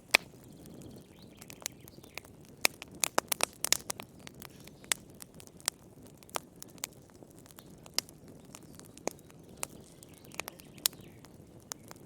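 Wood fire crackling in a fireplace: irregular sharp pops and snaps, a quick cluster about three seconds in, over the soft low rush of the flames.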